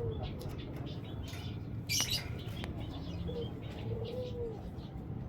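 Small cage birds, a canary and a white-headed munia, giving short high chirps and fluttering in the cage, with a sharp click about two seconds in. A low arched call sounds twice in the background over a steady low hum.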